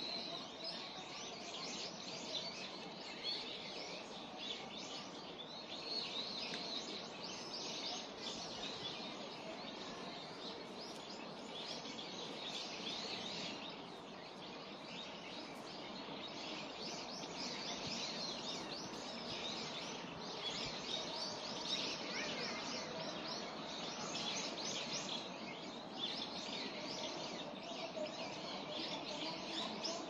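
Many small songbirds chirping and twittering at once, a dense stream of short high calls overlapping throughout, over a steady low background of outdoor noise.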